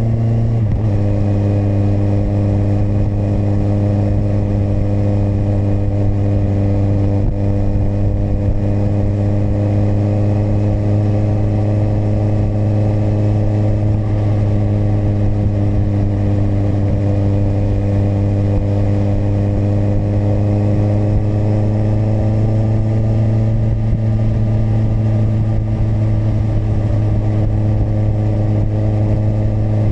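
Kawasaki motorcycle engine running at a steady cruise, its pitch dipping briefly about half a second in and then holding nearly constant, edging up slightly later on.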